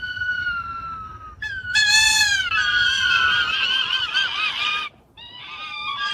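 A bird's long, high, wavering cries, three drawn-out calls with short breaks between them.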